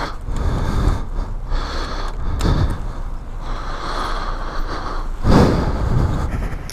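Motorcycle engine running at low speed under a steady rushing noise, with a louder surge about five seconds in.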